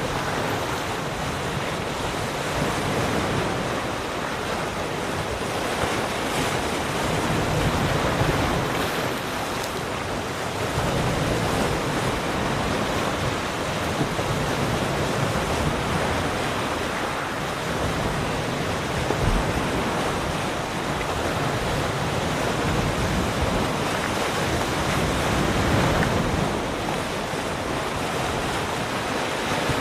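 Ocean surf: waves breaking and washing in a continuous rush, swelling and easing every few seconds.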